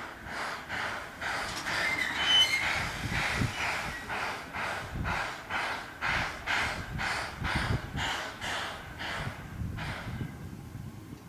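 C11 steam tank locomotive working under steam, its exhaust chuffing about twice a second and fading away near the end, with a brief high squeal a couple of seconds in.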